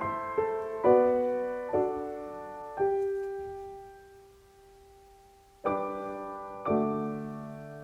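Soft solo piano background music: slow chords that ring and fade, one long held note dying away to a near-silent pause before new chords come in near the end.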